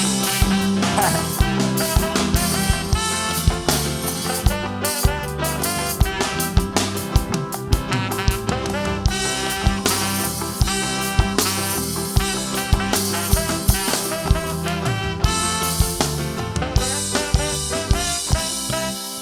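Live calypso band playing on without vocals, with a steady drum beat under sustained instrument lines, fading out near the end.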